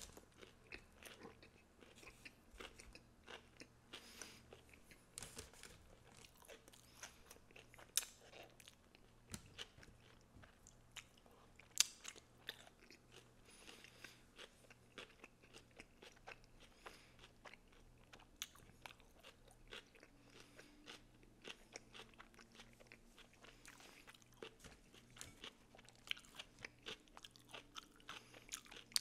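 Close-miked chewing of a Subway footlong sandwich (Italian bread, salami, pepperoni and raw vegetables): a faint, steady run of small crunches and mouth clicks, several a second, one sharper crunch about twelve seconds in.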